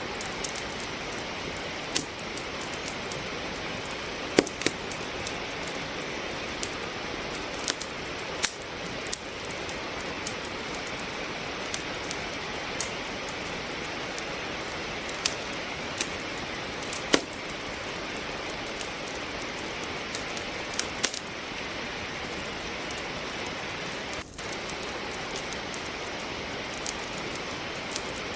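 Steady rain falling, mixed with a wood fire crackling in a fireplace: a constant hiss of rain with sharp pops and snaps from the burning logs scattered irregularly throughout, a few of them much louder than the rest.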